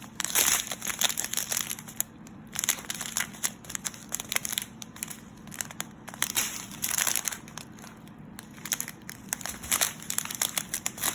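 Small plastic packets of diamond-painting drills crinkling as they are handled and sorted through, in irregular bursts with short pauses.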